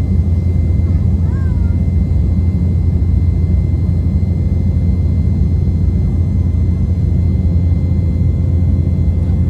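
Steady cabin noise of an Embraer E195 jet airliner under takeoff or climb power, with a dense low rumble of its GE CF34 turbofans and airflow and faint steady whines above it, heard from a seat inside the cabin.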